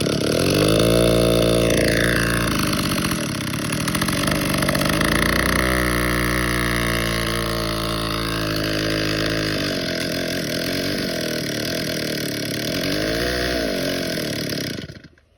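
Two-stroke chainsaw running at high speed through a cut, its engine note sagging and picking back up several times as it loads in the wood.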